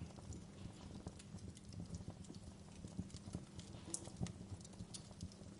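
Fireplace fire crackling: irregular small pops and snaps over a low steady rumble.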